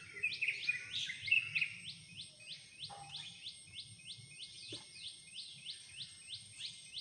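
A bird calling in a fast, even series of short down-slurred chirps, about three a second, with a burst of other bird chirping in the first two seconds.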